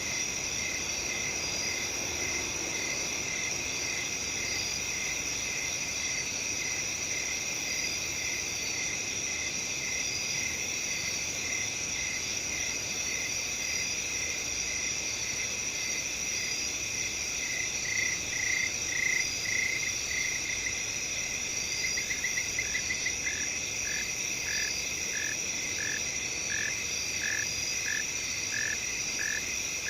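Night chorus of crickets: a steady high-pitched trill with short chirps repeating at an even pace over it. About 22 seconds in, one caller gives a quick run of chirps and then keeps chirping evenly, a little over once a second.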